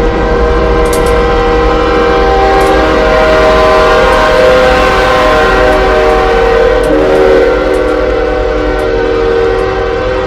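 Locomotive air horn sounding one long held chord over the running noise of a passing train, the noise swelling toward the middle; the chord shifts slightly about seven seconds in.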